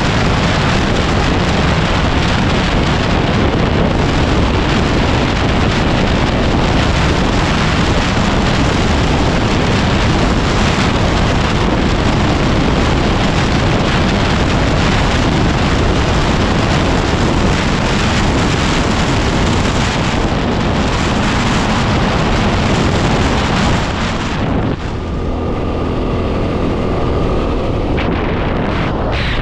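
Heavy wind buffeting on the microphone of a moving 2010 Yamaha WR250R single-cylinder dual-sport motorcycle, its engine running underneath. About 25 seconds in, the wind noise drops and the engine's steady tone comes through.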